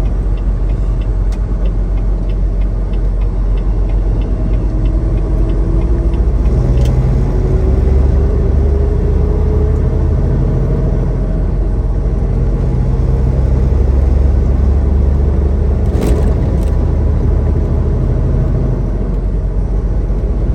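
Semi-truck engine and road noise heard from inside the cab while driving: a steady low drone with a tone that slowly rises in pitch. A quick run of light, evenly spaced ticks comes in the first few seconds, and a single sharp click comes about 16 seconds in.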